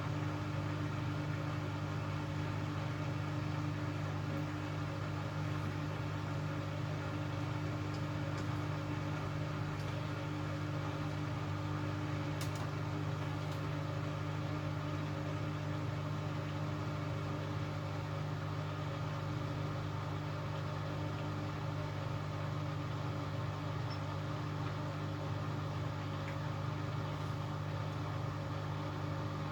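Hoover Axi 9kg washing machine running with a steady, even hum that holds the same pitch throughout.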